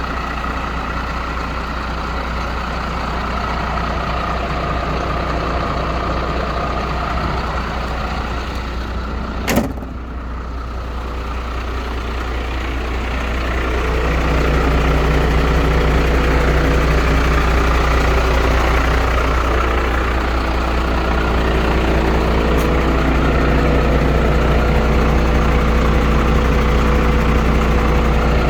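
MAN 12.250 truck's diesel engine running at idle, with a single sharp knock about a third of the way in. From about halfway the engine gets louder and its note steadies at a higher level.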